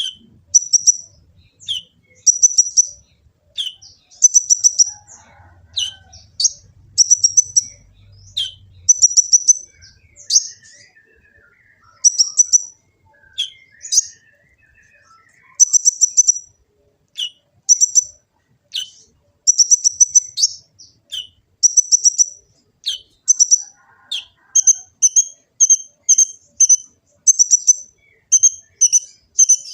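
A 'kolibri ninja' sunbird singing: short bursts of rapid, very high chittering notes, each often opened by a sharp downward note. The bursts repeat about once a second with brief pauses. About three-quarters of the way through, the song changes to a quicker, even string of repeated notes.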